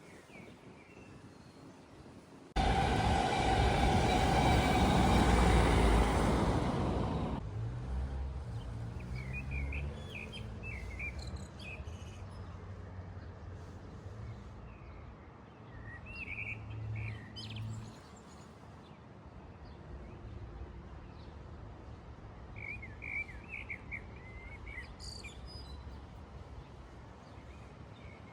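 A loud rumbling noise starts abruptly a few seconds in, holds for about five seconds, then dies away. Small birds chirp in short bursts a few times afterwards.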